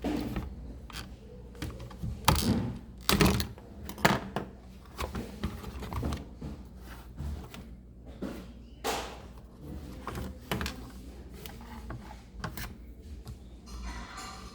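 Irregular clicks, taps and knocks of hands and tools working on a refrigerator fan motor assembly, with the loudest knocks about two to four seconds in and again near nine seconds.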